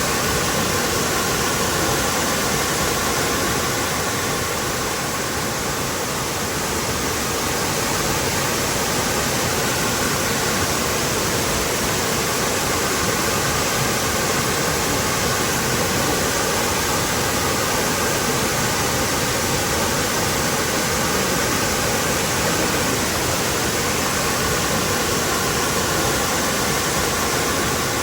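Waterfall rushing steadily, a dense even roar of falling water with no breaks or sudden splashes.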